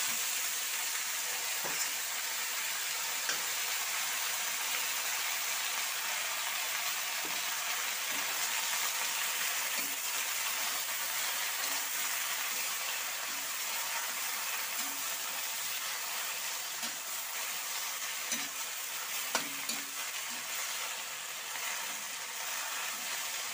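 Sweet potato leaves sizzling steadily in hot oil in a metal wok as they are stir-fried, with a few clinks of a metal spatula against the pan.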